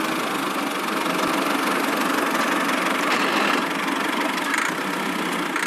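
Small engine of a miniature DIY tractor running steadily at an even speed.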